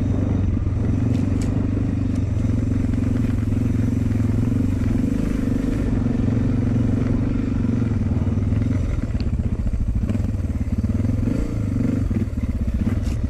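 Suzuki DR650's single-cylinder four-stroke engine running at low speed on a motorcycle ridden over a rocky trail. It runs steadily at first, then settles into slower, separate firing pulses about nine seconds in, with a few light clicks over it.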